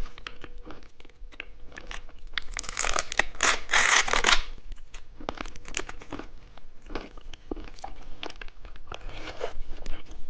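Plastic candy packaging crinkling and tearing as a small jelly is unwrapped by hand. There are many short crackles, with a louder, longer tearing stretch about three to four seconds in.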